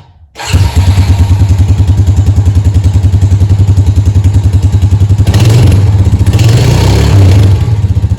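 Honda Rancher ATV's single-cylinder four-stroke engine running with a steady, even pulse after its clogged carburetor pilot jet was blown out, with two brief louder throttle rises about five and six-and-a-half seconds in. The sound drops out for a moment at the very start.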